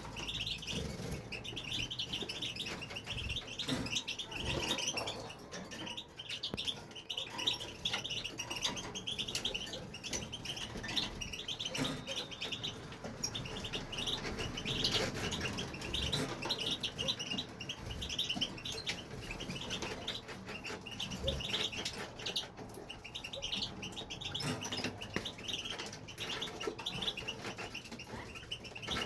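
European goldfinch singing: a long, fast run of twittering and chirping notes with a few short pauses.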